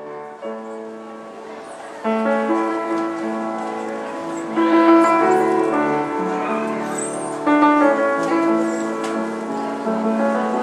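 Piano playing slow, sustained chords, starting softly and growing louder about two seconds in, with stronger chords about four and a half and seven and a half seconds in.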